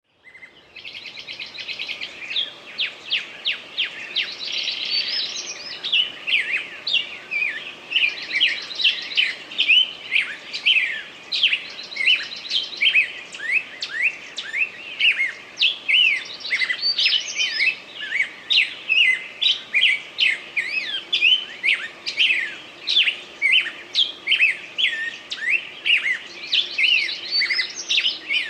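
Birds chirping continuously: a dense string of short, high chirps, about two or three a second, with fast trills now and then.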